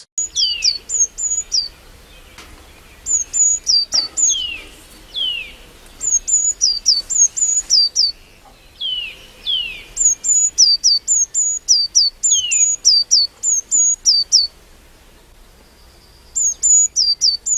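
Birds calling: quick phrases of high, thin, downslurred chirps, repeated again and again with short pauses between phrases, over a faint low hum.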